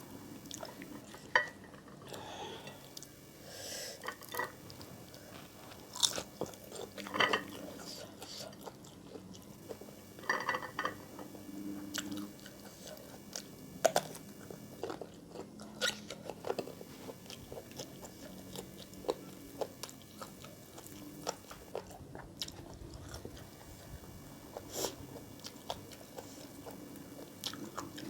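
Close-up eating sounds: chewing and biting, with irregular crunches and sharp mouth clicks through the whole stretch.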